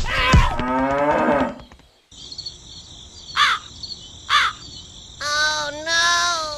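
A cow mooing, a long call that falls in pitch and ends just under two seconds in. Then crickets chirr steadily, a crow caws twice, and a second long moo starts about five seconds in.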